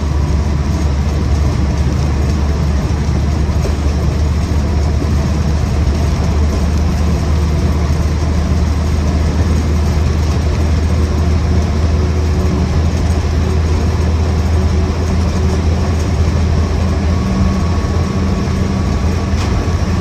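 Land Rover Series 1 88-inch's 2-litre four-cylinder petrol engine pulling at a steady cruise of about 45 mph, heard from inside the soft-top cab as a steady low drone mixed with drivetrain and road noise.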